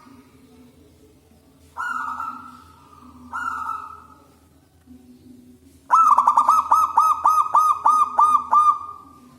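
Zebra dove (perkutut) cooing: a single coo about two seconds in and another about a second and a half later, then a fast run of about ten clipped coos, roughly three a second, from about six seconds in until near the end.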